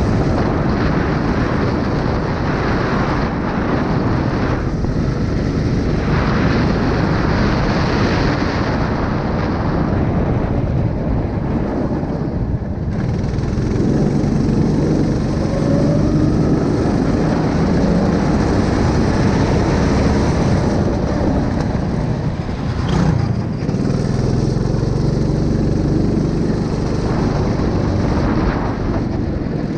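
A 9 hp engine running steadily and loudly throughout, its pitch shifting slightly now and then.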